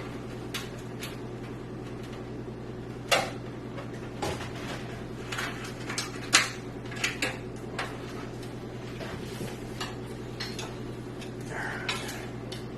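Scattered clicks and light clatter of plastic connectors and cables being handled inside a computer case, sharpest about three and six seconds in, over a steady low hum.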